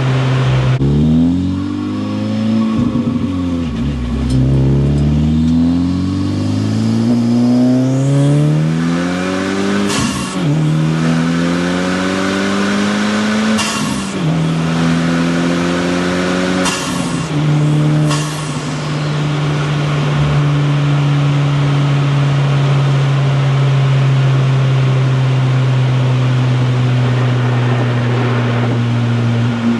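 Modified Honda Civic Type R FL5's turbocharged 2.0-litre four-cylinder pulling hard up through the gears, the engine note climbing in each gear and dropping at each shift, with short bursts of hiss at several shifts. For the last ten seconds or so it holds a steady cruise.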